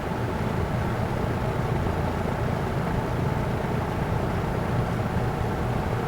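1971 Electrohome 652-1-C 20-inch box fan, a rebranded Lakewood P23, running on its low speed with a steady low whoosh and hum.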